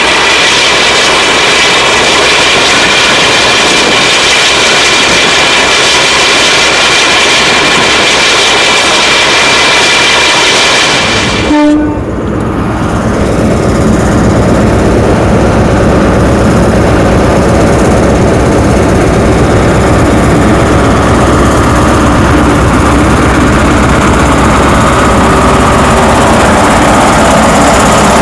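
Train running loudly, a steady rushing noise with a few thin tones, that cuts off abruptly about halfway through and gives way to a steady low engine rumble.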